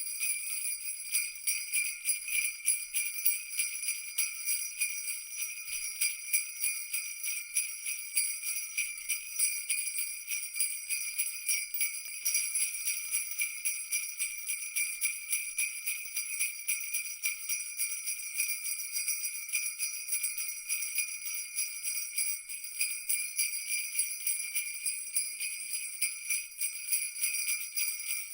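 Jingle bells shaken continuously in a fast, even jingling, with no pause.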